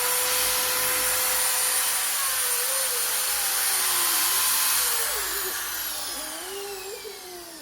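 Electric drill running at full speed with a steady high whine that dips slightly now and then, then released about five seconds in and winding down with a falling pitch.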